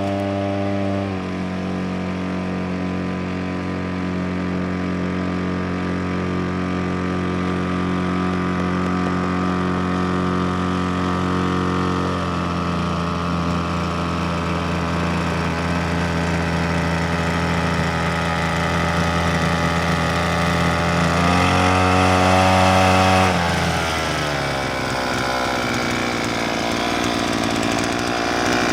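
Small brush-cutter engine driving a homemade outboard boat motor, running with a buzzing note. Its speed shifts several times: it drops about a second in and again around twelve seconds, rises to its loudest just past twenty seconds, then falls back and runs rougher near the end.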